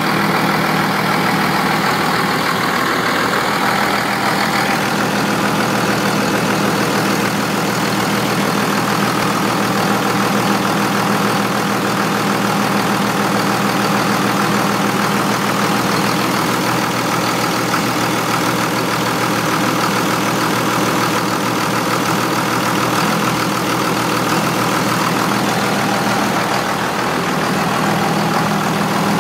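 24-valve Cummins turbo-diesel engine idling steadily on its first run since a runaway, now fitted with a new 67 mm HX52/55 turbocharger.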